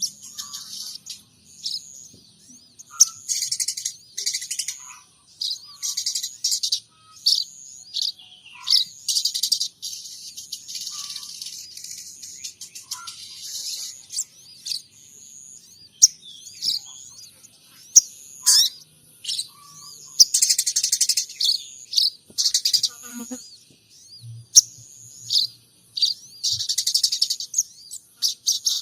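Sogon trotol songbird singing a fast, varied string of high chirps, trills and short gliding notes in bursts, a song that mixes in mimicked sparrow and munia calls.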